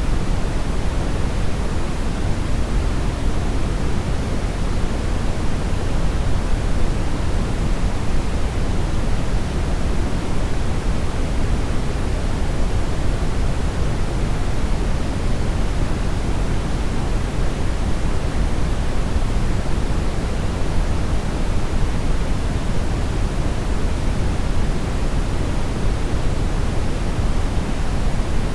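Steady synthetic brown noise, an even rumbling hiss weighted toward the low end, with no change or events.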